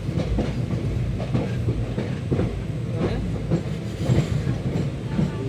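Indian Railways passenger train rolling through a station, heard from aboard: a steady low rumble with irregular clacks of the wheels over the rail joints.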